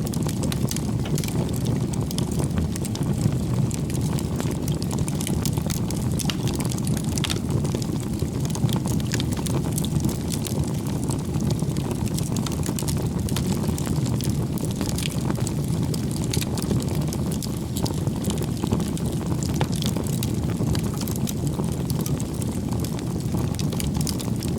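Wood campfire burning, a steady low rumble of flames with frequent small crackles and pops from the burning firewood.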